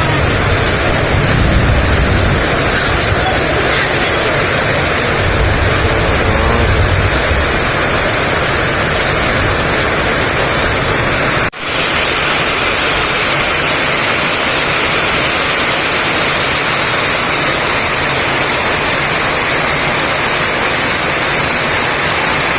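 Heavy rain pouring down in strong wind, a loud steady rushing hiss with low rumbling gusts in the first half. It breaks off for an instant about halfway through, then carries on.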